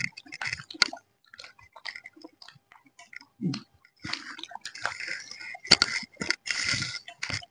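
People chewing and crunching fried chicken pakodi, with irregular small clicks and short crunching bursts that grow busier past the middle.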